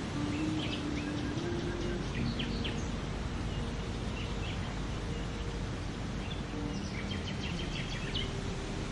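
Outdoor morning ambience: a steady rushing background noise with songbirds chirping in short scattered calls, busiest near the end.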